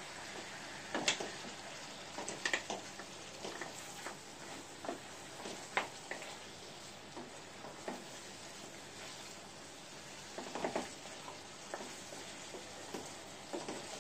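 Mutton pieces sizzling in masala in a kadai, with a little water added to be cooked down (kosha), while a wooden spatula stirs them and knocks and scrapes against the pan at irregular moments.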